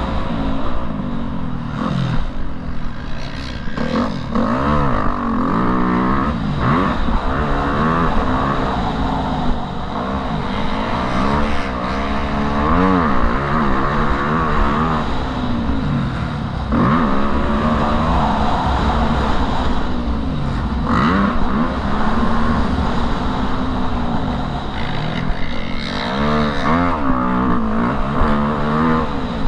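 Motocross bike engine under hard riding, its pitch rising and falling over and over as the throttle opens and closes and the gears change.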